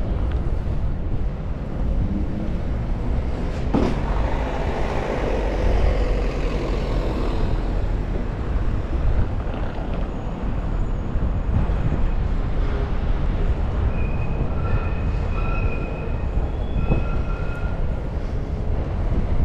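Steady wind rumble on the microphone and road noise while riding a bicycle. About four seconds in, a louder sound sweeps down in pitch, and near the end come a few short, high, repeated tones.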